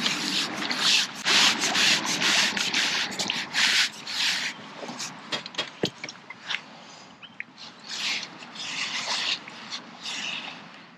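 Repeated scraping strokes close by in two bursts, with a few sharp clicks between them.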